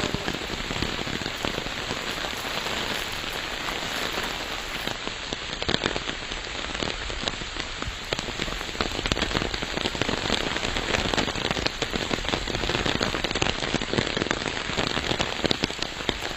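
Steady rain falling, with many small sharp drop ticks close by.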